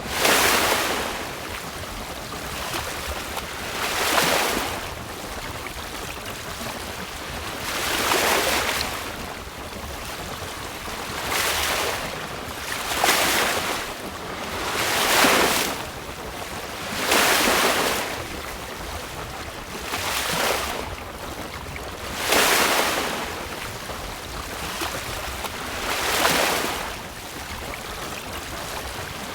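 Choppy sea washing and splashing against a sailboat's hull, surging every two to four seconds over a steady hiss of wind.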